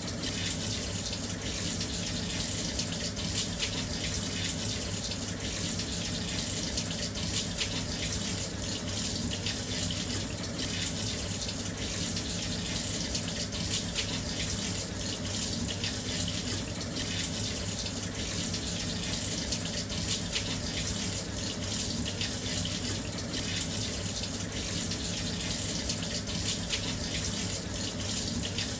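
Washing machine filling with water: a steady, continuous rush of water pouring into the drum, with a low hum beneath it.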